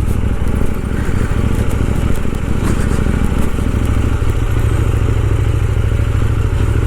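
KTM Duke 790's parallel-twin engine running steadily at low speed over a rough unpaved track, with light clattering over the bumps.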